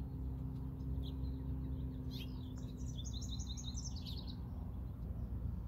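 Small songbird chirping: a couple of single chirps, then a quick twittering phrase of rapid high notes about two seconds in that lasts around two seconds, over a steady low outdoor rumble.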